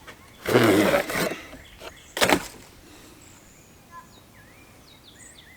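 Clatter and scraping of tools and metal parts being handled during a tractor repair: a noisy scrape of almost a second starting about half a second in, then a single sharp knock, followed by quiet with faint birds chirping.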